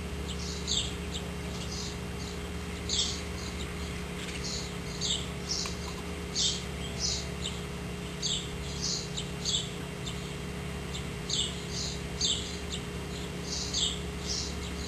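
A bird chirping: short, high, sweeping chirps in loose groups of two or three, about one a second, over a faint steady low hum.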